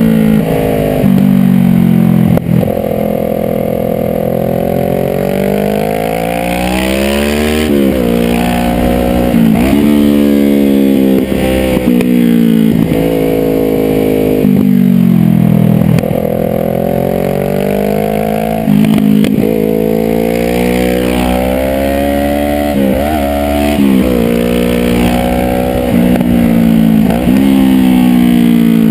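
Sport motorcycle engine revving up and down through the gears, its pitch climbing under throttle and dropping sharply at shifts and at corner entries, over wind rushing past a helmet-mounted microphone.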